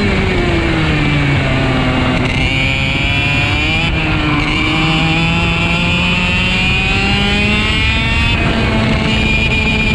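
Two-stroke racing kart engine heard from on board through a lap: the note falls under braking at the start, climbs as the kart accelerates, cuts back sharply about four seconds in and again a little past eight seconds, and climbs again each time, over steady wind and road noise.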